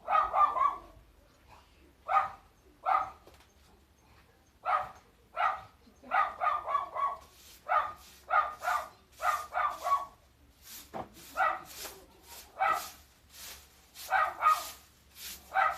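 A dog barking repeatedly in short barks. There are a few single barks at first, then quicker runs of barks from about five seconds in.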